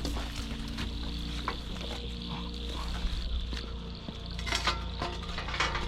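Light metallic clinks and rattles as parts of a discarded washing machine are handled and pried at. The clicks are scattered at first and come thicker near the end.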